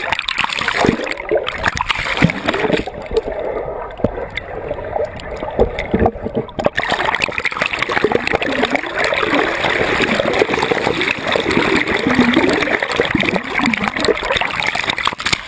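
Turbulent water splashing, steady and loud, with many small splashes. The high hiss drops away for a few seconds near the middle, then returns.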